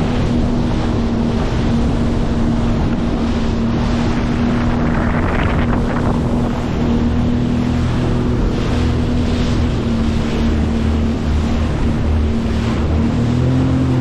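A motorboat's engine running with a steady hum as the boat moves through the water, with wind buffeting the microphone and water splashing against the hull, one louder splash about five seconds in.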